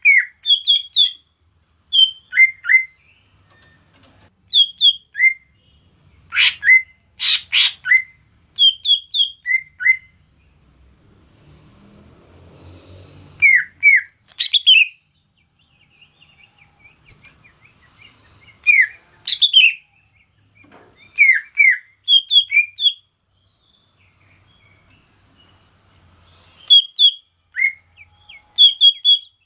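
Greater green leafbird (cucak ijo) singing: short phrases of loud, clear whistled notes come every few seconds, with a few sharp notes about seven seconds in. A steady high hiss runs underneath.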